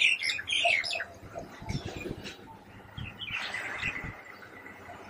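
Small birds chirping in quick, high, repeated notes, busiest in the first second and fainter after that.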